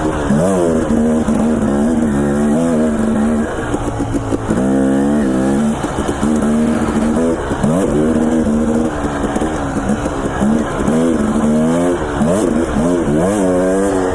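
Dirt bike engine revving up and down as it is ridden, its pitch holding steady for stretches and then rising and falling repeatedly with the throttle.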